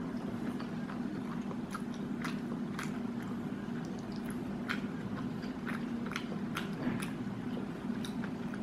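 Close-up chewing of a mouthful of fried chicken burger: wet mouth clicks and smacks every half second to a second, over a steady low hum.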